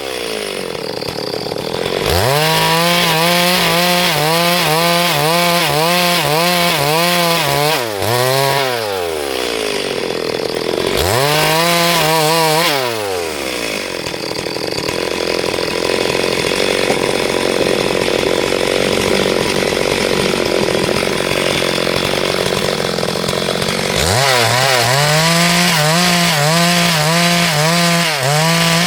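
Two-stroke chainsaw cutting lengthwise through a log at full throttle, its pitch wavering as the chain loads in the wood. The throttle drops and comes back twice early on, then eases off for about ten seconds in the middle, before the saw revs up and cuts again near the end.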